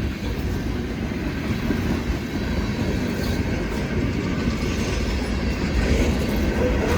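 Loaded lumber cars of a long CSX freight train rolling past, a steady rumble and clatter of steel wheels on the rails.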